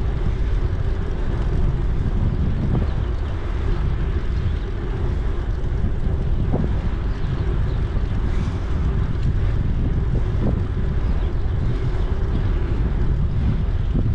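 Wind buffeting the microphone of a camera on a moving bicycle: a loud, steady low rumble with rolling noise from the ride and a few faint knocks.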